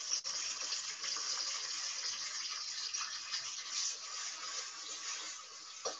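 Coriander and ginger-garlic paste sizzling in hot oil in a kadai: a steady frying hiss.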